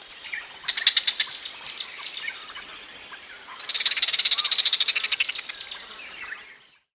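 Recorded calls of a striated heron: a rapid series of dry, clicking notes, a short bout about a second in and a longer, louder bout in the middle.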